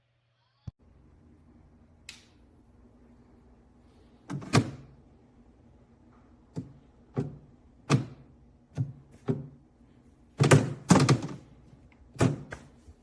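A string of about a dozen irregular knocks and clunks, loudest in a cluster about ten seconds in, over a faint steady low hum.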